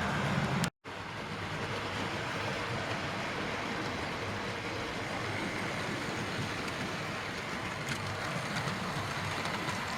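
Model railway trains running on the layout: a steady whirring rumble of small electric motors and wheels on track. The sound drops out completely for a moment just under a second in.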